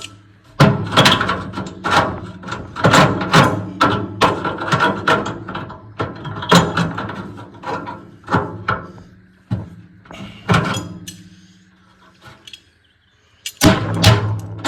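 A run of irregular knocks and clanks, at times about two a second, several ringing briefly, with a pause about twelve seconds in before they start again.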